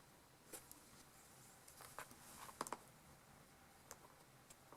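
Near silence with a few faint, light clicks and taps, from multimeter test leads being handled against the ignition coil's terminals.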